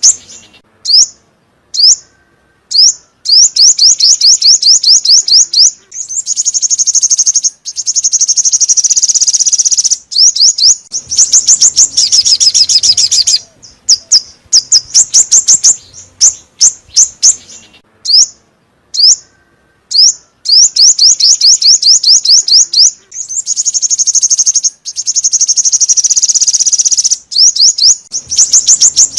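Songbird call of the kind sold in Vietnam as the 'five-colour bird' lure call: loud, very high, rapid chirping trills in repeated phrases, some short and some running several seconds, with brief pauses between.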